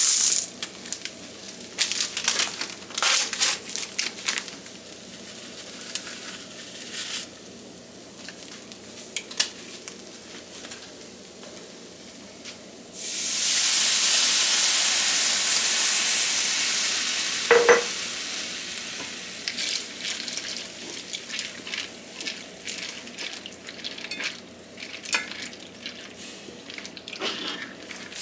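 Food frying in a pan, stirred with a utensil that taps and scrapes the pan. About halfway through, a loud burst of sizzling starts suddenly and slowly dies down, with a brief clink near its end.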